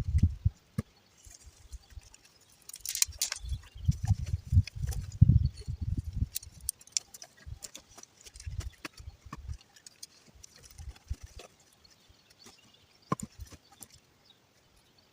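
Campfire being lit with a single match. A brief hiss about three seconds in, in keeping with a match being struck, then scattered small crackles and snaps of catching kindling. Intermittent low thumps of handling or wind on the microphone are the loudest sound.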